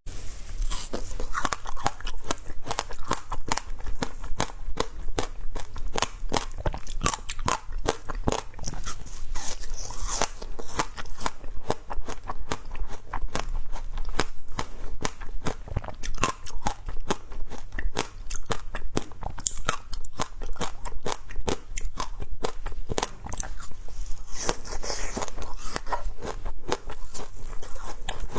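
Close-up crunching and chewing of creamy shaved ice, a dense, continuous run of crisp icy crunches and crackles.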